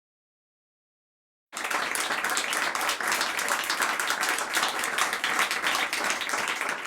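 Dead silence, then about one and a half seconds in, a crowd applauding steadily until it cuts off at the end.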